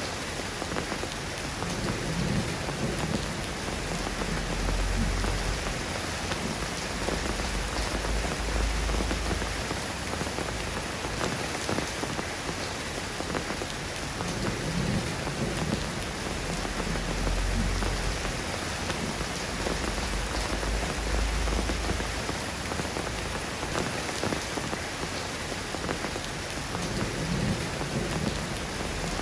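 Steady soft rain falling, an even patter, with a low rumble swelling up and fading away three times, about every twelve seconds.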